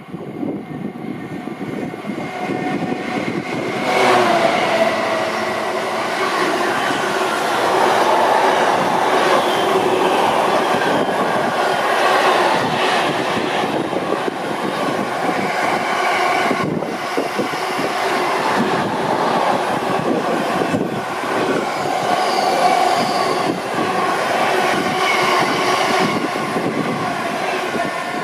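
A train running past, a loud steady rush of wheels on rail with several held whining tones over it, swelling sharply about four seconds in.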